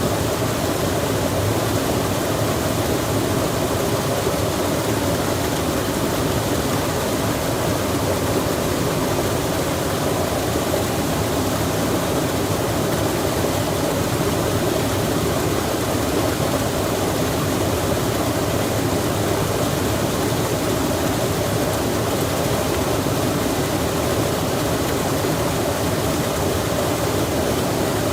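Rain falling by a flowing stream: a steady, even rush of water with no single drops or other sounds standing out.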